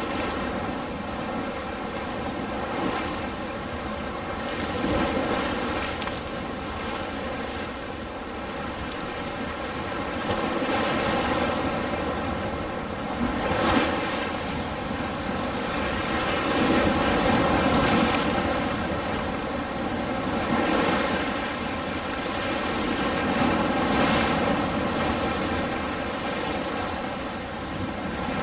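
Ocean surf: waves washing in and ebbing in slow swells every few seconds, with a sharper crash of a breaking wave about halfway through and another near the end.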